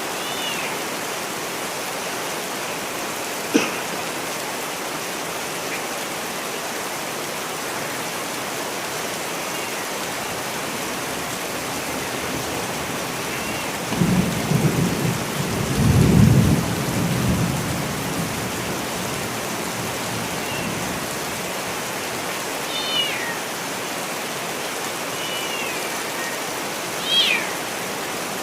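Steady rain, with a low rumble of thunder rolling in about halfway through and fading over a few seconds. Short, high chirping calls break through a few times, and there is a single sharp click early on.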